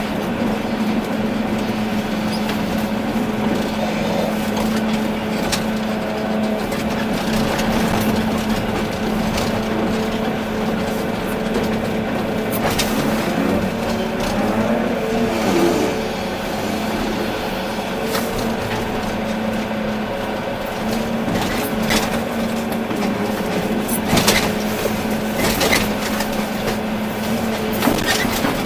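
Volvo EC380D excavator's diesel engine running steadily under work, with several sharp knocks scattered through the second half.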